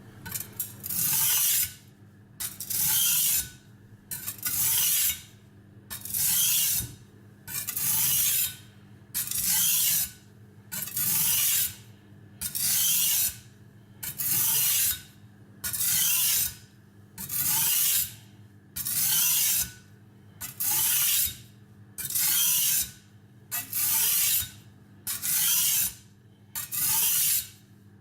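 Steel cleaver blade pushed in even strokes across the coarse side of a silicon carbide bench stone, making a gritty rasp with each pass. The strokes come about one every two seconds, each lasting about a second, with brief pauses between.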